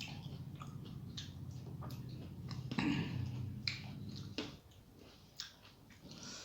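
Close-miked chewing and eating mouth sounds, with scattered wet clicks and smacks, from someone eating a meal of rice, dal and curry. A low hum underneath drops away about two-thirds of the way through.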